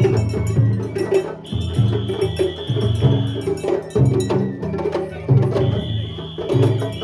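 Japanese festival hayashi from a float: taiko drums beating a repeating pattern with clanking metal hand gongs, and a high bamboo flute holding long notes that come in and drop out.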